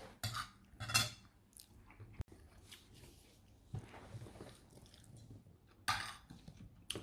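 Cutlery clinking and scraping on a plate during a meal, with soft chewing. The sounds come as a few short, scattered bits, the loudest about a second in and another near the end.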